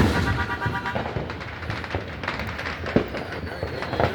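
Fireworks going off: one loud bang at the start, then a run of crackling pops and scattered smaller bangs.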